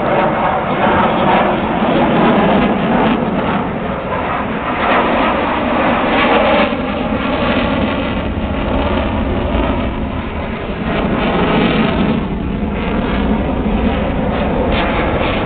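Military fighter jets' engines, a loud continuous jet noise that swells and fades a little as the aircraft manoeuvre.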